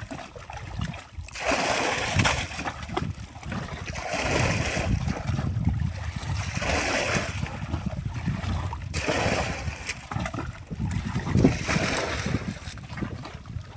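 Water splashing and sloshing in repeated surges, about one every two to two and a half seconds, with a low rumble underneath.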